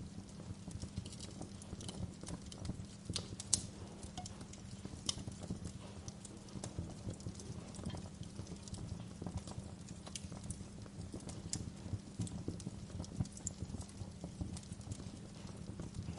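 Fireplace fire crackling, with irregular sharp pops over a steady low rumble; one pop about three and a half seconds in stands out as the loudest.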